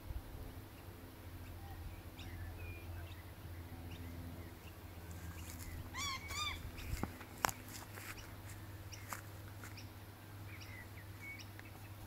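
Wild birds calling in the treetops: scattered short chirps and whistles throughout, with two louder calls about six seconds in. A single sharp click comes soon after.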